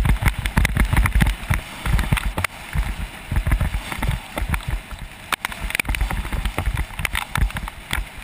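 Bicycle on a fast descent in the rain: wind buffeting the action camera's microphone, with frequent sharp clicks and knocks from the bike over a steady wet hiss.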